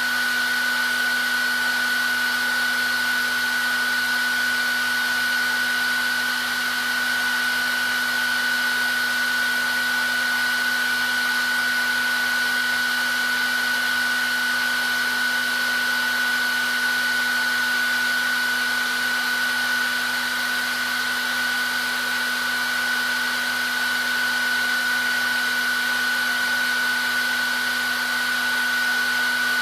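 Hair dryer running steadily: a constant rush of blown air with a high whine from the motor and fan and a lower hum beneath it.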